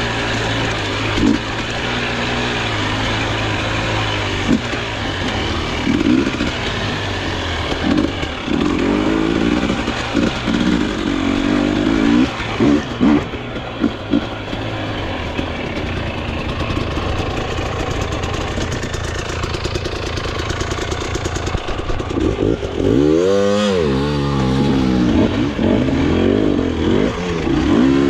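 Dirt bike engine on an enduro trail, revving up and down as the rider works the throttle, with one sharp rev rising and falling late on.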